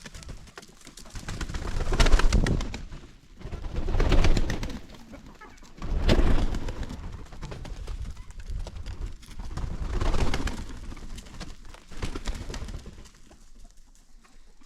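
Pigeons or doves cooing, a series of swelling calls about every two seconds.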